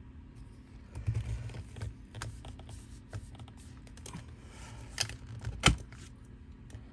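Paper pages and small craft tools handled on a table: scattered light clicks and taps with some paper rustling. Two sharper knocks come about five and six seconds in, the second the loudest.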